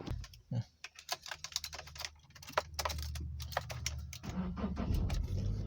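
A quick, uneven series of small clicks and rattles, like plastic connectors and tools being handled. A low, steady hum comes in underneath about two seconds in.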